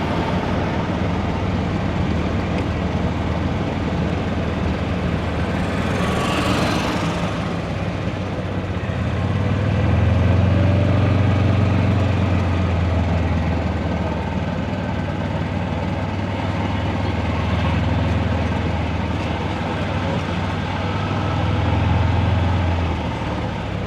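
Big-rig diesel engine idling with a steady low rumble that grows louder about nine seconds in and eases off near the end, with a brief hiss about six seconds in.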